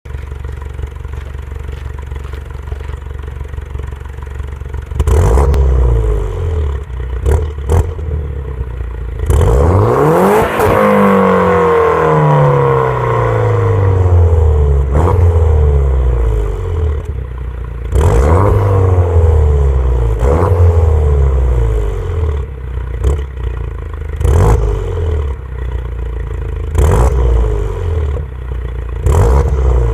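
Peugeot 208 GTi's 1.6 turbocharged four-cylinder, exhaust decatted with a straight stainless intermediate pipe on the stock rear silencer, idling and then revved in repeated blips. A longer rev about ten seconds in rises and falls slowly, and a few sharp cracks come between the early blips.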